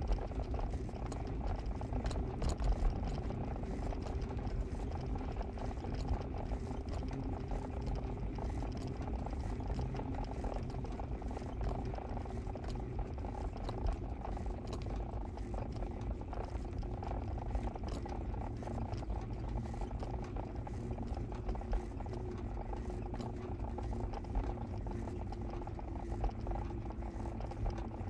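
Car engine and road noise heard from inside the cabin while driving: a steady low rumble with a few faint ticks.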